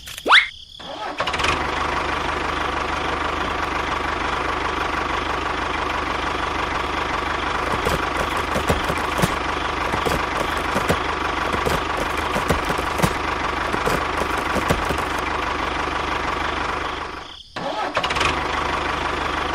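A motor running steadily, starting with a brief loud rising sound and cutting out for a moment near the end.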